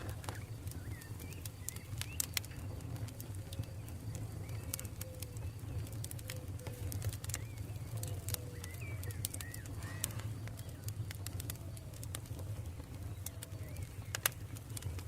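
Campfire crackling, with scattered sharp pops and snaps over a steady low rumble of burning. Birds call faintly in the background with short, repeated gliding notes.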